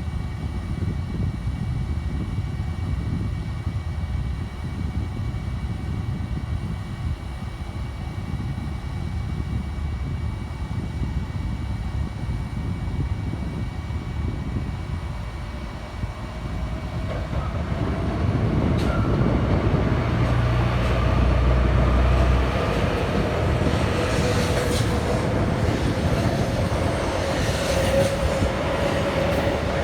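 Joetsu Shinkansen train running at the station platform: a steady low rumble that grows louder about 17 seconds in, when a steady whine joins it.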